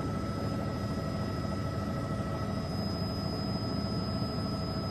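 Steady drone of a news helicopter's engine and rotors heard from inside the cabin: a constant noise with a few thin, steady whining tones.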